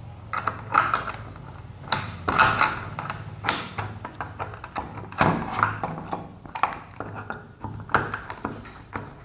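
Irregular clicks, knocks and light rattles of a washing-machine trolley's parts being handled and screwed together while its castor wheels are fitted.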